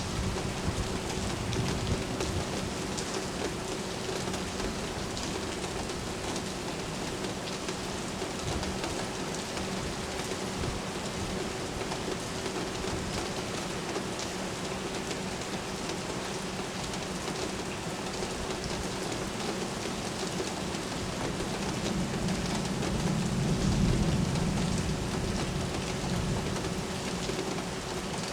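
Steady rain falling in a downtown thunderstorm, an even hiss with a faint steady hum beneath it. About 22 seconds in, a low rumble swells, peaks and fades over a few seconds.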